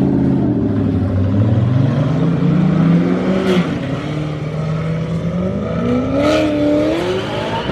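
Car engine revving: the pitch climbs for about three seconds, drops back and holds, then climbs again near the end. Two short hisses cut in, about three and a half and six seconds in.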